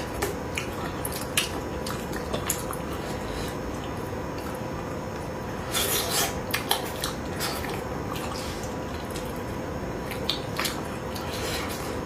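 Eating sounds from a meal of spicy braised fish: scattered clicks of utensils on the dish and wet mouth sounds, busiest about six seconds in, over a faint steady hum.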